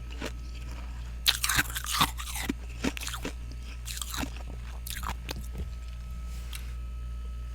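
A person chewing mouthfuls of hard, crunchy freezer frost close to the microphone, in clusters of crunches that thin out after about five seconds. A steady low hum runs underneath.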